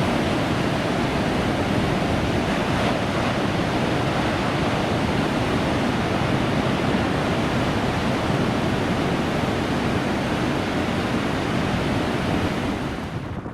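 Ocean surf: a steady wash of breaking waves with some wind. It fades down just before the end.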